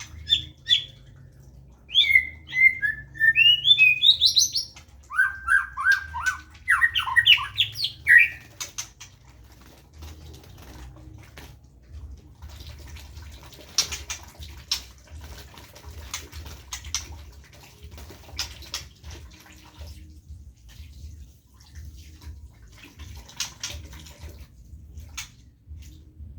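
A white-rumped shama sings three bursts of loud, varied whistled phrases, sweeping up and down in pitch, over about the first eight seconds. After that come many light clicks and scrapes, with a cluster near the end.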